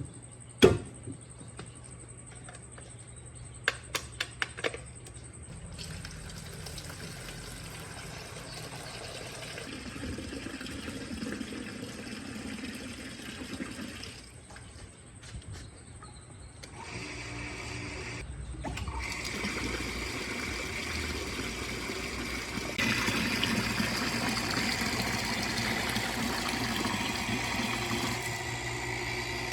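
Water rushing and splashing as a restored automatic pressure water pump runs, over a steady low hum. A few sharp clicks sound in the first five seconds, and the water gets louder about 23 seconds in.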